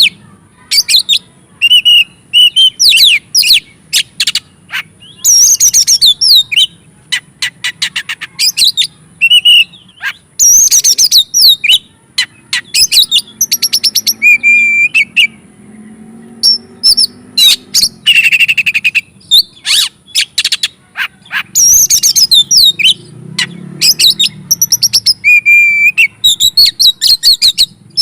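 Oriental magpie-robin (kacer) singing loudly in full, excited song: varied phrases of sweet whistles, quick pitch slides and rapid clicking trills, separated by short pauses.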